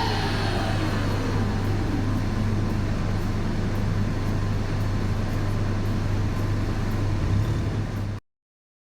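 Volkswagen Golf 6 R's turbocharged 2.0-litre four-cylinder running down on the dyno after a pull: its falling pitch fades out in the first second. A steady low hum and rumble then carry on until the sound cuts off abruptly near the end.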